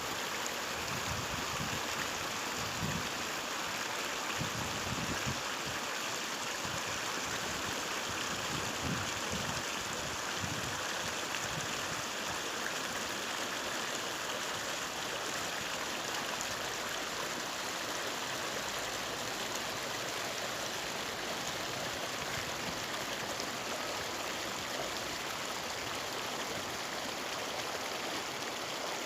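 Stream water rushing steadily over rocks, an even, continuous wash. A few low rumbles come through in the first ten seconds or so.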